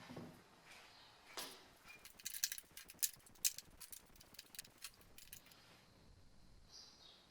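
Small hard objects clicking and clinking together in a quick, irregular run, like metal parts or tools being handled. Faint high chirps repeat about twice a second near the end.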